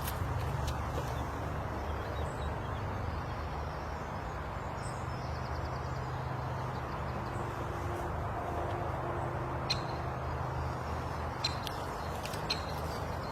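A car engine idles steadily with a low hum, and faint bird calls come over it, including a few short, sharp calls near the end.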